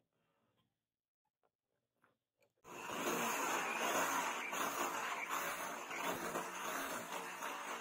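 A few faint ticks, then about two and a half seconds in, a steady, harsh rubbing or grinding noise from a tool working the knife starts suddenly and keeps going.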